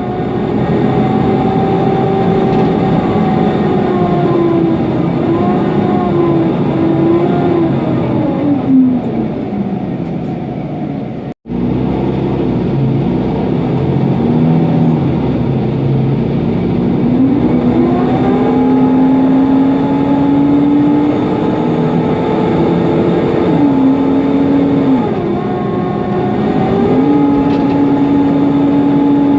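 Mercedes-Benz Conecto NGT city bus under way, heard on board: its OM 936 G natural-gas engine and loud cooling fan make a whine whose pitch falls and rises with engine speed, over a rumble of road noise. The sound cuts out for an instant about 11 seconds in.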